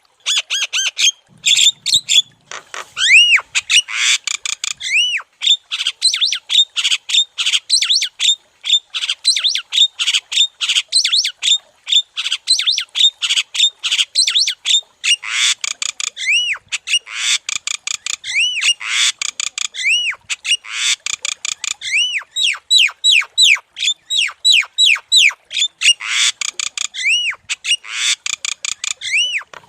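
Javan myna (jalak kebo) in full, nonstop song: a rapid run of harsh notes mixed with whistles that rise and fall, with barely a pause.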